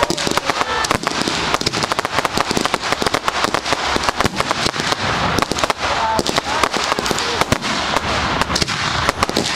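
Fireworks display: a dense, continuous crackle of many rapid pops and bangs, with a few short whistling glides.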